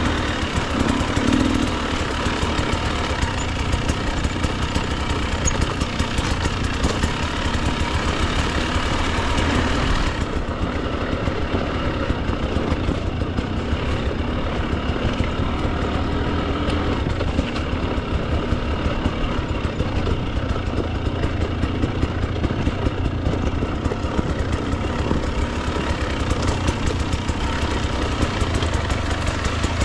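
Husqvarna TE 300 two-stroke dirt bike engine running steadily at low revs, a fast even stream of firing pulses; the higher hiss thins out about ten seconds in.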